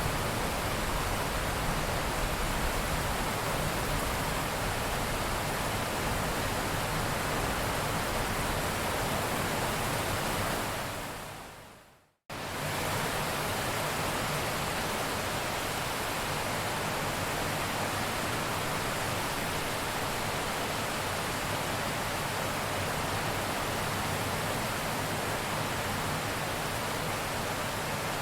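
Steady heavy rain, an even hiss of falling water. About eleven seconds in it fades down to a moment of silence, then starts again abruptly at full strength.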